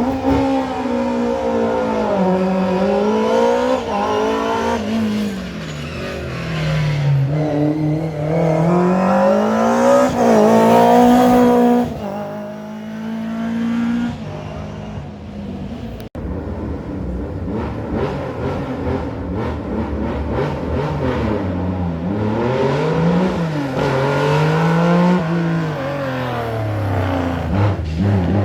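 Rally car engines driven hard on a special stage, the revs climbing and dropping again and again through gear changes and lifts. About sixteen seconds in the sound cuts abruptly to another car doing the same.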